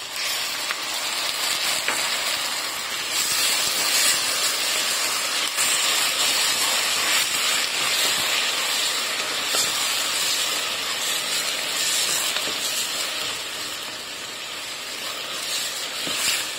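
Chopped blanched tomatoes sizzling in hot oil with sautéed onions and garlic in a stainless steel pot: a steady frying hiss that eases slightly near the end.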